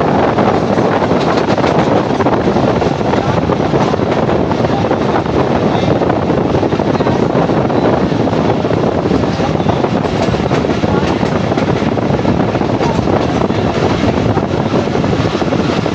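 Passenger train running at speed on the line: a steady, loud rumble of wheels on the track with the rush of air, unchanging throughout.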